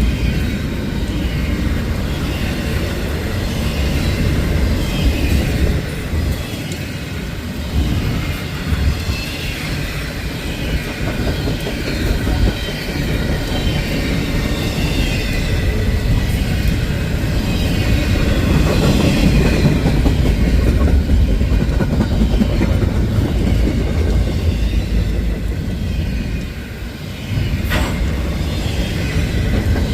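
Freight train rolling past close by: a loud, steady rumble of steel wheels on the rails, with a faint wavering squeal higher up. There is a short lull near the end, then a sharp click before the rumble picks up again.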